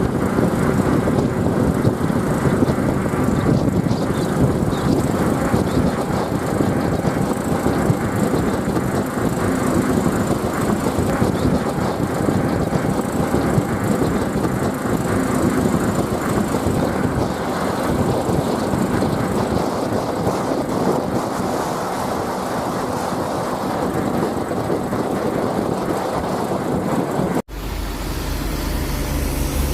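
Lorry driving on a rough road: engine running with dense rattling and road noise. About 27 seconds in it cuts abruptly to a steadier, lower engine hum.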